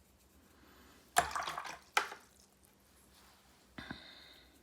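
Watercolour paintbrush being wetted and worked in water and paint: a short wet swish about a second in, a light tap, then a faint brief scrape near the end.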